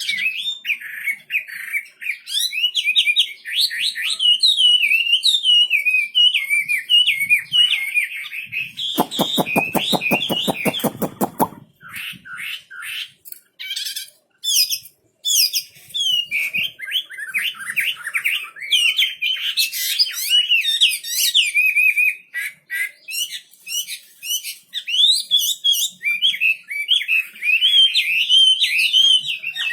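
Wambi songbird singing hard in fast, varied warbling phrases, with a harsh buzzing rattle about nine seconds in and a sparser run of short sharp notes in the middle before the warbling resumes.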